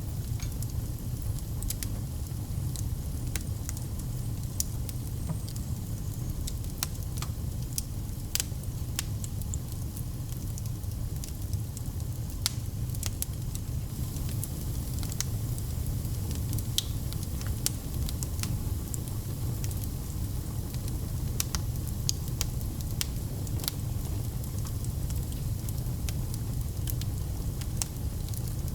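Wood fire in a fireplace crackling, with frequent sharp pops and snaps scattered irregularly over a steady low rumble.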